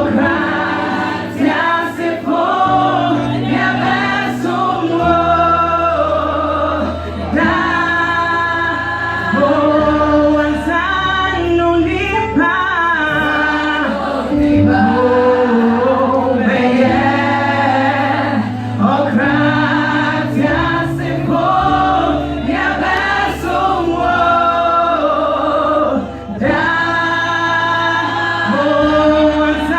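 Church youth choir singing a gospel song in Twi, several voices in harmony over held low notes that change every couple of seconds.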